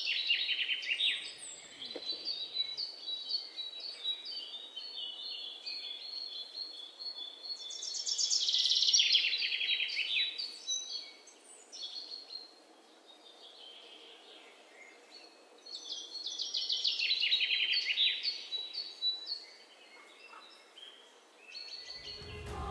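Birds singing: three bouts of rapid chirping notes that slide downward in pitch, a few seconds apart, over a faint steady outdoor background.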